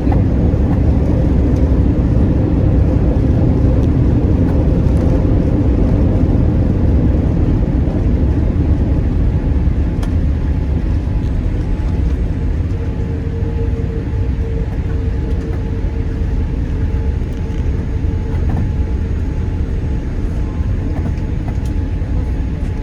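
Cabin noise inside a Boeing 787-8 taxiing after landing: a steady low noise from the engines and the rolling aircraft, easing slightly. A faint steady hum comes in about halfway through.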